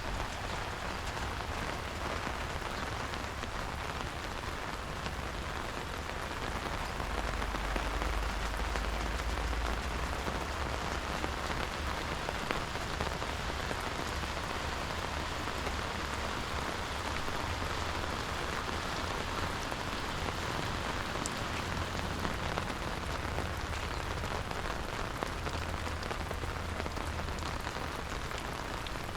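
Steady rain falling and pattering on surfaces, an even hiss, with a brief low rumble about a third of the way in.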